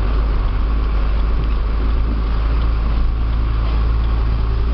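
Heavy truck's diesel engine running steadily with a continuous deep rumble.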